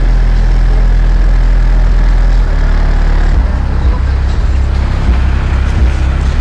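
Very loud bass from four Pioneer 308 subwoofers in a car sound system, with deep held notes that shift every second or so over a noisy, distorted haze. The car's body shakes with it.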